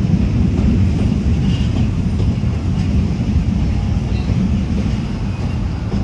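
Passenger train running across a steel truss railway bridge: a steady, low rumble of wheels and girders with no distinct wheel clicks.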